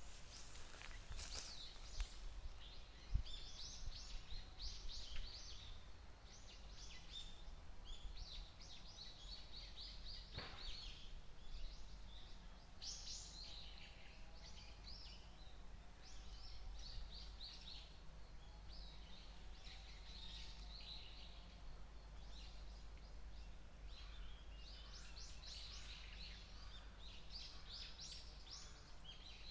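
White-eye calling: clusters of short, high chirps and twitters repeated throughout, over a faint low background rumble.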